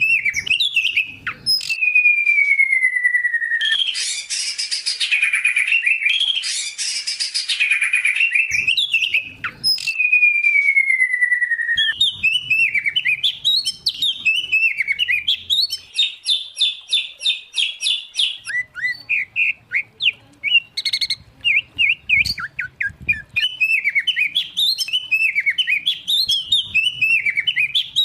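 Songbirds singing, from a mixed recording of white-rumped shama, oriental magpie-robin and greater green leafbird: fast varied phrases with two long falling whistles in the first half and dense buzzy trills.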